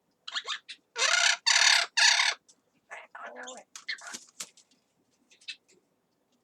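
Yellow-crowned amazon parrot squawking: three loud, harsh calls in quick succession about a second in, framed by shorter, quieter calls and clicks.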